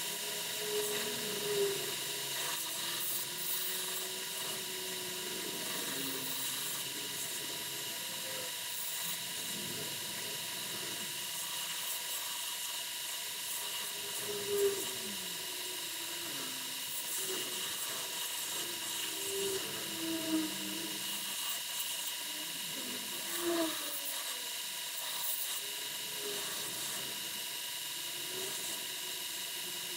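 An electric grinder's motor running steadily with a constant whine. Lower tones waver as the work is pressed against it, with a few brief louder moments.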